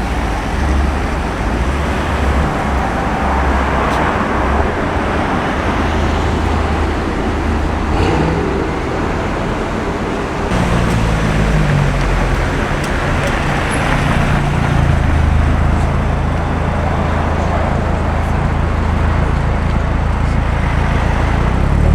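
Urban street traffic: car engines running and vehicles passing. From about halfway in, a low engine hum close by grows stronger.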